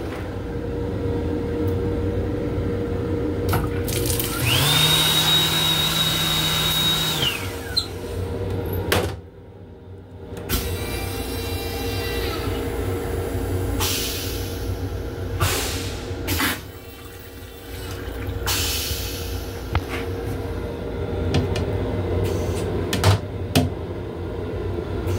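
Inside the restroom of an M7 commuter railcar, the car's steady rumble and hum. About five seconds in, a motor whine rises, holds for about three seconds and falls away. The noise drops off sharply for about a second and a half near the nine-second mark, with a few scattered clicks.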